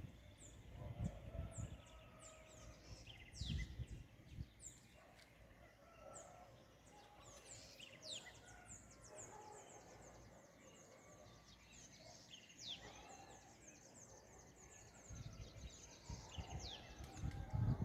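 Dawn chorus of small songbirds: a busy run of short, high, falling chirps with fainter lower notes, and a few low rumbles.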